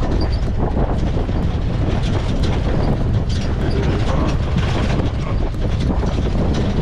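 Safari game-drive vehicle driving on a rough bush track: a steady engine and tyre rumble with the body rattling and clattering.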